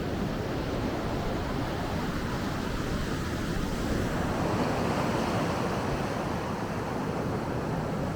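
Sea waves breaking and washing up on the shore, one wave swelling louder about four seconds in, with wind rumbling on the microphone.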